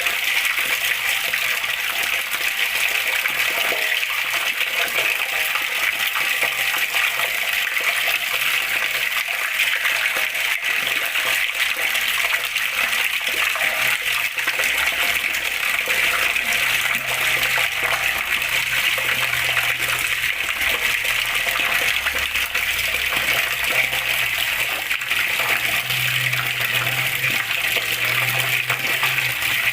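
Flowing water running and splashing steadily, an even, unbroken rush with no pauses.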